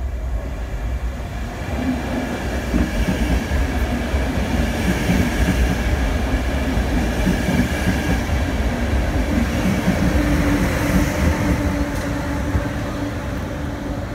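A City Airport Train passing through an underground station at speed without stopping. Its wheels rumble continuously on the rails, with a steady whine on top. It grows louder over the first few seconds and eases a little near the end.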